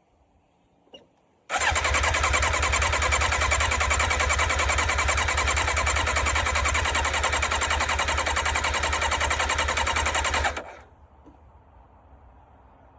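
Yamaha sport bike engine cranked on its electric starter with the choke off for about nine seconds, a fast even churning that never catches and then stops suddenly. The owner suspects it is not getting fuel.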